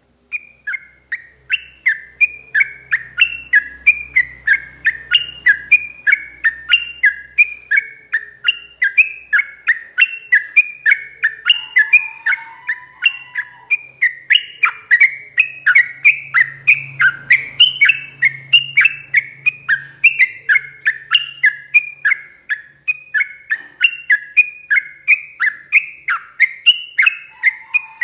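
Yellow-vented bulbul (trucukan) singing a long unbroken run of rapid chattering notes, about three a second. This is the continuous 'ropel panjang' song prized by Indonesian bird keepers, with a brief lower warble about twelve seconds in.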